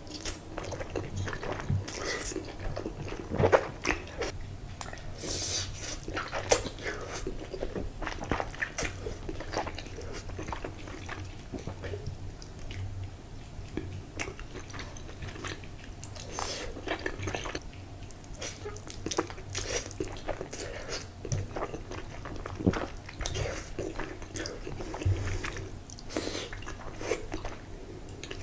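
Close-up eating: a person biting and chewing food, with many short, irregular crisp clicks and crunches.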